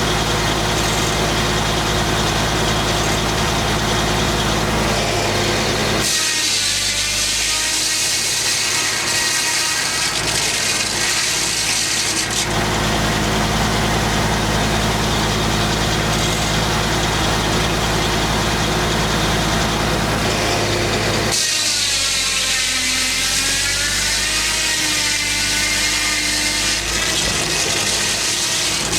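Engine-driven homemade circular sawmill running steadily. About six seconds in, and again past twenty seconds, the blade cuts into a big white pine log for roughly six seconds each time: a loud high hiss rises over the engine and the engine's pitch sags under the load.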